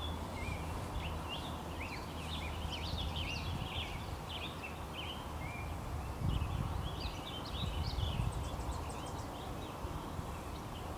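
Small birds chirping in quick, repeated short calls over a steady low rumble, which grows louder and more uneven from about six seconds in.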